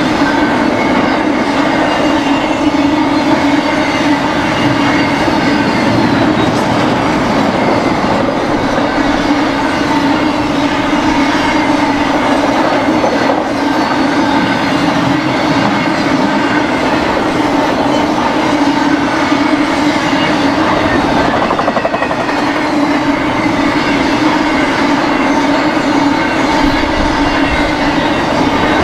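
Freight train rolling past, its railcar wheels on the rails making a steady, loud rumble and clatter with a steady ringing tone over it.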